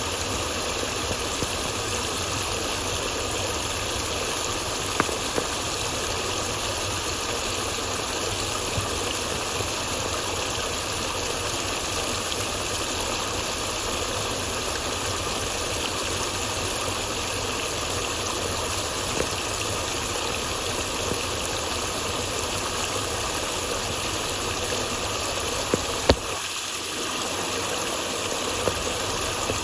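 Steady rush of flowing water, with a few faint clicks. Near the end there is a sharp click, after which the rushing briefly drops away before resuming.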